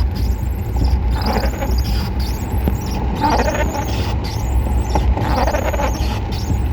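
Strong wind buffeting the microphone: a loud, steady, deep rumble with gusts that swell every couple of seconds.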